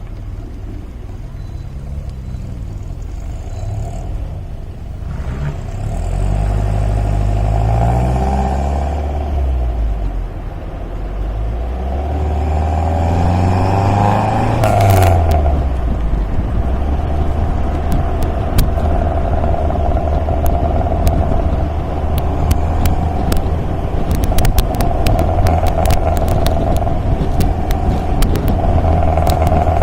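MG MGA roadster's four-cylinder engine driving: the revs climb twice and drop back at each gear change, then it runs steadily at a cruising speed. Scattered light ticks can be heard in the second half.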